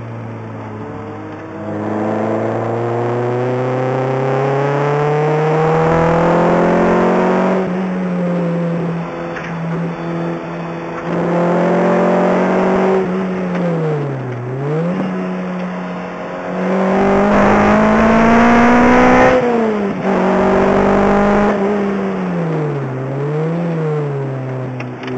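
Lotus Exige engine heard from inside the cabin while lapping a track: the revs climb in long rising pulls, drop sharply at gear changes, and near the end dip and rise again quickly twice.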